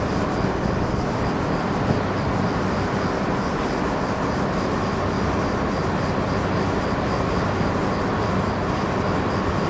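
A train running with a steady, even rumble, with a faint held tone and a faint pulsing high tone over it.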